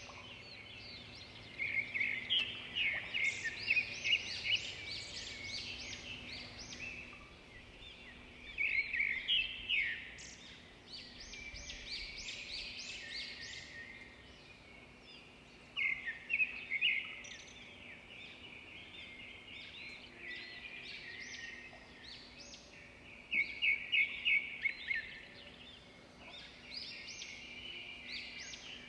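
A flock of small birds chirping over one another, with louder runs of rapid chirps about two seconds in, around nine seconds, around sixteen seconds and near twenty-four seconds. A faint steady hum lies underneath.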